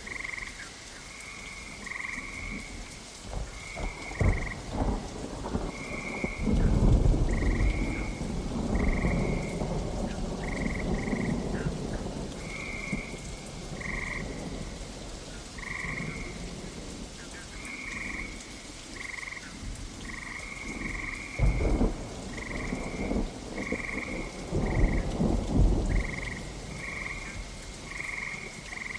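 Steady rain with thunder: a long rolling rumble about six seconds in, and louder cracks and rumbles again about two-thirds of the way through. Frogs call throughout, short high croaks repeating irregularly, one or two a second.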